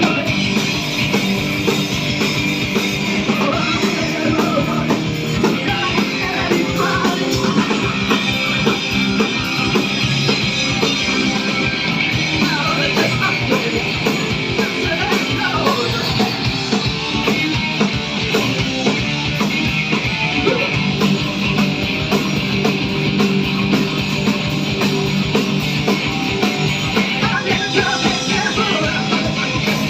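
Loud live rock band playing continuously, with a voice singing over the band at times.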